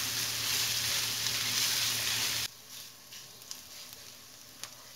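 Ground beef, onion and green peppers sizzling in a hot frying pan as they are stirred with a plastic spatula. About two and a half seconds in the sizzle drops suddenly to a faint hiss, with a few light clicks of the spatula against the pan.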